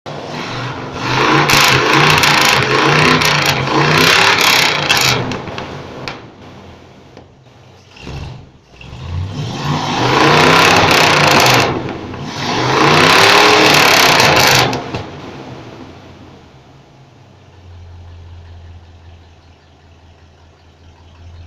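1957 Chevrolet's engine running and revving roughly in two long loud stretches, then dropping to a low hum; the engine is worn out and awaiting replacement.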